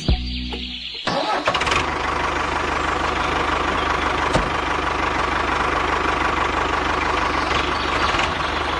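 Tonal sound ends about a second in, and an engine starts up and runs steadily with a fast, even low chatter.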